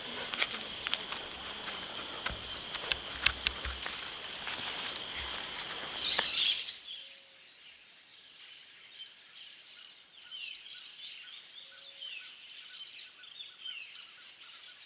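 Forest ambience: a steady high insect drone with scattered clicks. About seven seconds in it cuts abruptly to a quieter stretch, where a high insect whine continues under faint bird chirps.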